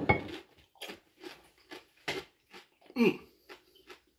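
Crunching chews of a salsa-loaded tortilla chip, a short crunch every half second or so, loudest at the first bite. About three seconds in there is a brief grunt as the salsa's heat hits.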